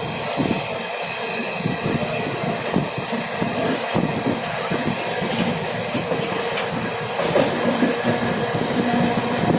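Train running, with a rapid irregular clatter of wheels over the rails under a steady hum.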